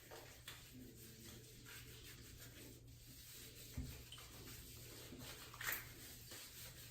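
Faint rubbing and handling noises, with a soft low knock about four seconds in and a brief louder rustle near the end.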